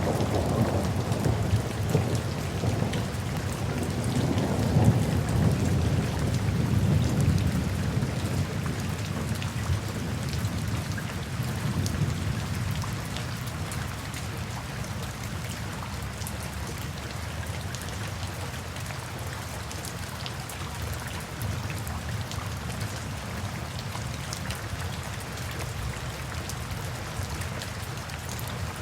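Steady rain falling, with a patter of fine drop ticks. Underneath it, a low rumble of thunder rolls and dies away over the first dozen seconds, leaving the rain alone.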